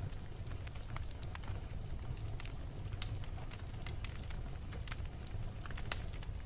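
Wood fire burning in a fireplace: irregular sharp crackles and pops from the burning logs over a low steady rumble of the flames. The loudest pops come about three and six seconds in.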